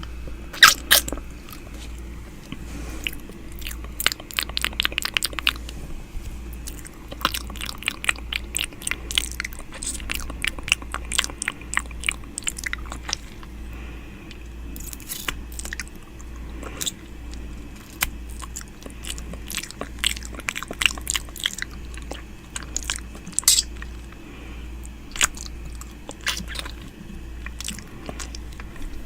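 ASMR 'ear eating' mouth sounds made close to the microphone: wet clicks, smacks and licking noises in quick, irregular runs.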